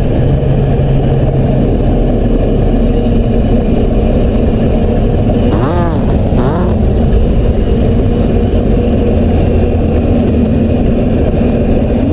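Dirt bike engine running steadily and loudly, with a brief rise and fall in pitch about six seconds in.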